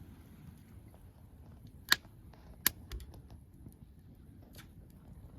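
Wood campfire crackling, with irregular pops and two loud snaps about two seconds in and shortly after, over a low steady rumble.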